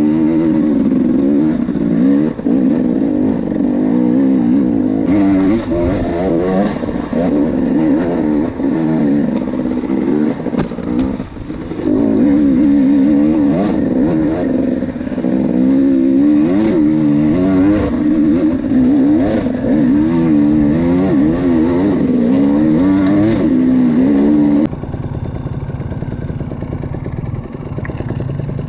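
Enduro motorcycle engine being ridden, its revs rising and falling again and again as the throttle is worked. It drops to a quieter, lower note near the end.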